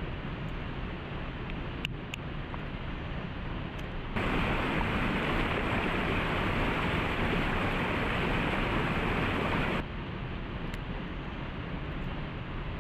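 Waterfall water rushing steadily. About four seconds in it turns abruptly louder and brighter for about five and a half seconds, then drops back. There are a couple of faint clicks about two seconds in.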